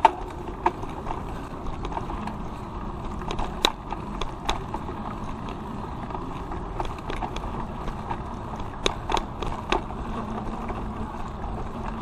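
A bicycle rolling along the street, with steady tyre and wind noise and scattered sharp clicks and rattles from the bike over bumps, a cluster of them near the end.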